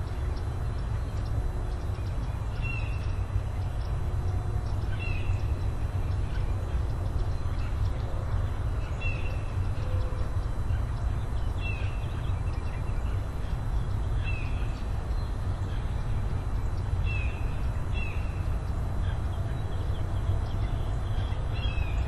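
A bird gives short, high chirps every one to three seconds over a steady low rumble.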